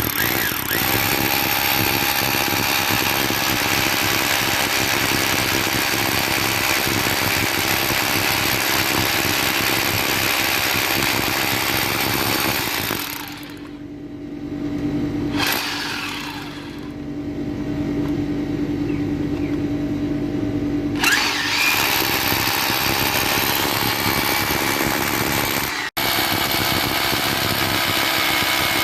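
A machine running loudly with a steady rushing noise and hum. It eases off for several seconds about halfway through, then picks up to full again.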